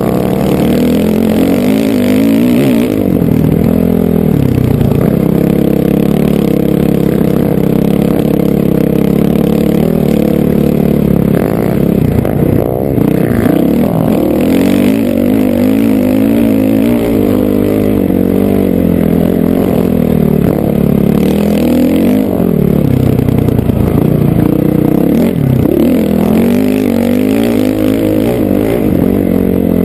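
Honda CRF450R single-cylinder four-stroke dirt bike engine running hard, its pitch rising and falling again and again as the throttle is worked and gears change.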